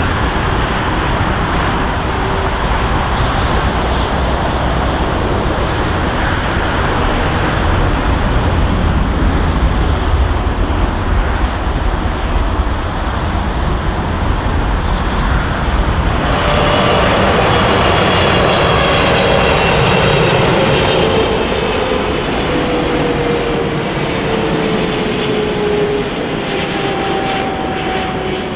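Boeing 777 jet engines: a loud, steady rumbling roar from one passing 777. About two-thirds through, the sound changes abruptly to a second 777, whose engine whine falls steadily in pitch as it goes by.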